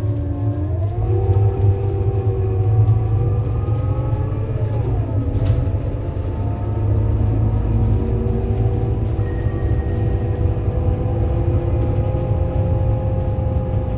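Scania K230UB bus's engine and ZF Ecomat automatic gearbox under way: a heavy low rumble with several whining tones. The whine rises in pitch about half a second in, dips and climbs again around five seconds in as the gearbox changes, then holds nearly steady.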